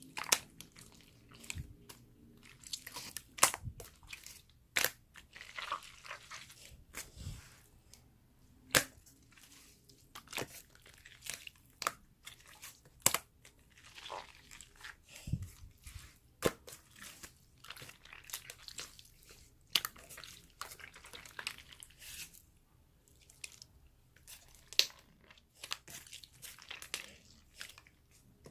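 Clear yellow slime being worked by hand: irregular sharp sticky clicks and pops with short crackling squelches, some sets of clicks coming in quick runs.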